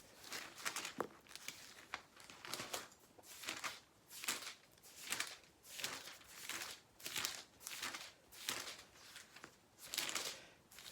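Thin pages of a Bible being leafed through one after another, a quick run of soft papery swishes, about two a second.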